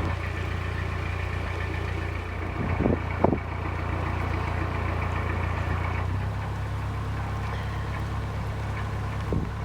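Narrowboat's diesel engine running steadily at low revs, its note shifting slightly about six seconds in. A short knock about three seconds in.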